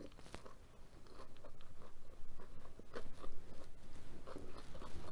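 A person chewing a mouthful of food with lips closed, close to the microphone, heard as many short, irregular clicks.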